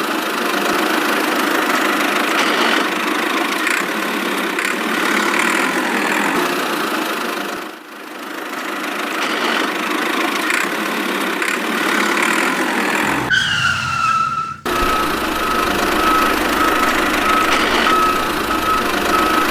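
A motor runs steadily, with a brief dip about eight seconds in. It cuts out for about a second and a half near two-thirds of the way through, and when it returns a steady high whine runs along with it.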